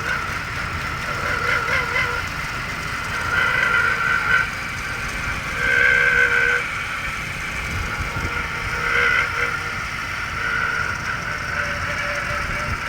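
Jaguar X-Type 3.0 V6 engine running, with a high-pitched tone from the engine bay that comes and goes every second or two over the steady engine sound. The noise is unexplained and was unchanged after the ribbed accessory belt and its pulleys were replaced.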